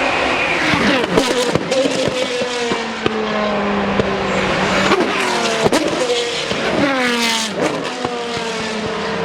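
Several GT race cars passing at speed one after another, their engine notes falling in pitch as each goes by, with a few sharp pops from the exhausts.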